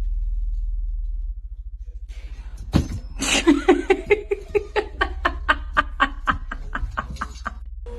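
A person laughing hard in a rapid run of pulses, about four or five a second, starting about three seconds in just after a sharp click and stopping near the end, over a low steady hum.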